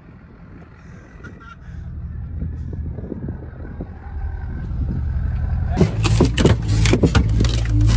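Truck engine running and building steadily louder, joined about six seconds in by a dense run of knocks and rushing noise.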